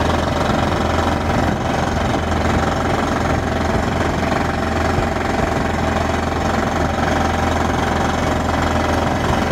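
Air-powered percussion drilling rig hammering at work, with a Holman compressor running, a steady, loud mechanical din.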